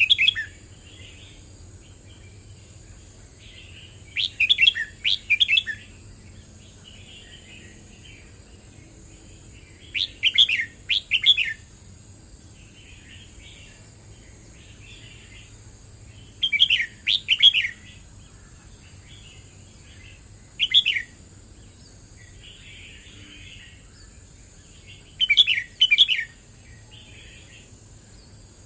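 Red-whiskered bulbul singing short song phrases, one every four to six seconds, with fainter calls between them, over a faint steady high hiss.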